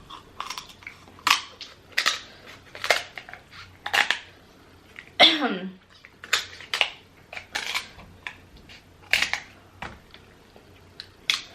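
Sharp clicks and cracks of seafood-boil shellfish shells, such as king crab legs, being cut, broken open and eaten, about one or two a second, with a brief vocal sound about five seconds in.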